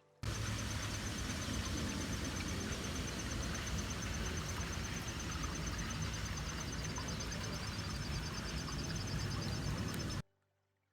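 Outdoor ambience: a steady low rumble of background noise with a high, rapidly pulsing insect trill over it. It cuts in abruptly just after the start and cuts off abruptly near the end.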